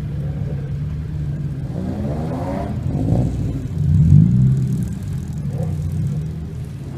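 Car engines running with a steady low drone. The revs climb briefly about two seconds in and again, louder, about four seconds in.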